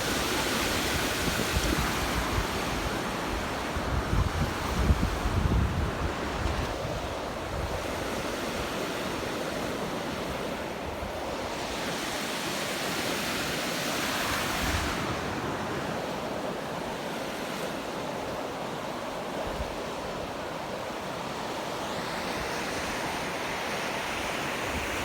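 Surf washing onto a sandy beach in a steady rush that swells and falls back a few times, with wind buffeting the microphone during the first few seconds.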